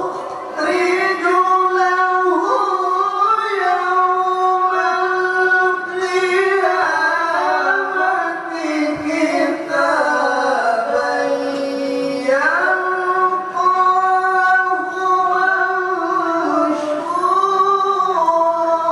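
A solo voice reciting the Qur'an in the melodic tilawah style. It sings one long melismatic phrase of held, ornamented notes that slide between pitches, with short breaks about 2 and 12 seconds in.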